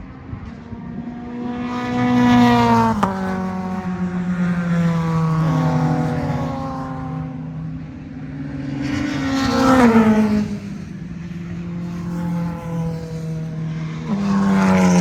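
Racing cars running on a circuit, engines revving hard with the pitch climbing and then dropping sharply as they go past. Two loud passes, about two and a half and ten seconds in, and another car coming up near the end.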